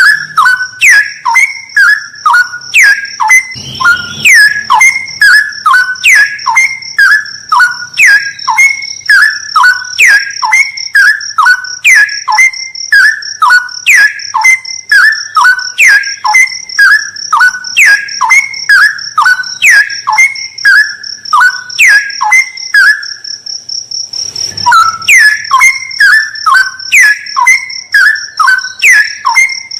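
Straw-headed bulbul (cucak rawa) singing: loud falling whistled notes repeated about twice a second, with a pause of about a second near the three-quarter mark. A steady high-pitched thin tone runs behind the song.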